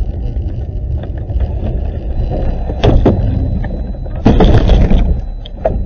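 Steady low rumble of a car on the road, heard from inside the cabin by a dashcam, with two loud noisy bursts: a short one about three seconds in and a longer one about half a second long near four and a half seconds.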